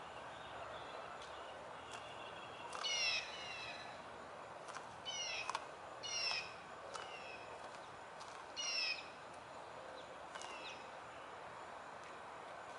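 Wild birds calling: several short calls, each a quick run of falling notes, with about four louder ones spread through, over a steady outdoor hiss.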